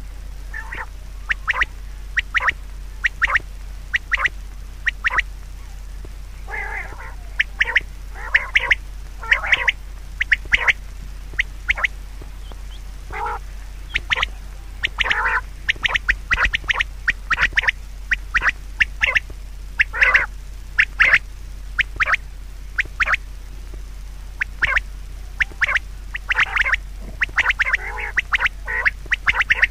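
Bird calls: many short, sharp calls, a few a second at times, with some longer harsh ones among them, over a steady low hum.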